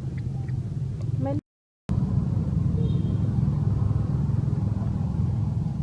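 Steady low outdoor rumble, broken by a half-second gap of complete silence about one and a half seconds in.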